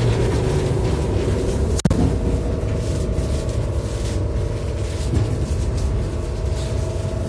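Steady rumble of a moving passenger train heard from inside its vestibule, with a faint steady whine over it. A sharp click and a brief drop about two seconds in, after which a slightly higher steady tone carries on.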